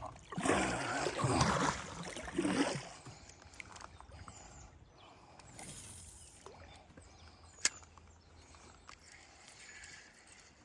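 Kayak paddle strokes splashing in the river water for the first few seconds, then quieter water and hull noises with one sharp click about two-thirds of the way through.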